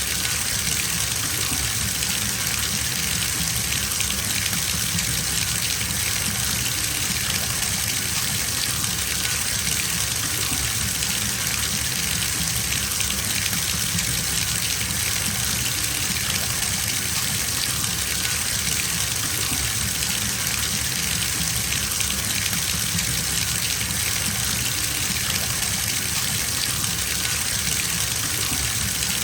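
Bathtub filling from a running tap: a steady, even gush of water pouring into the tub, unchanging throughout.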